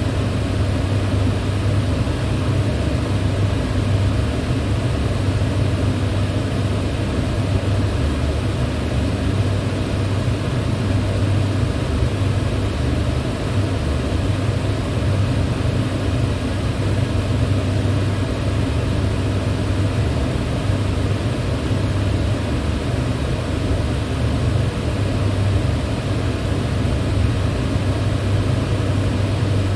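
Electric fan running steadily: a constant whoosh of air with a low hum.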